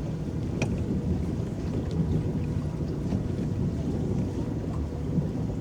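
Small electric boat under way on a lake: a steady low rumble of water churning and lapping at the hull, with wind on the microphone and a faint click about half a second in.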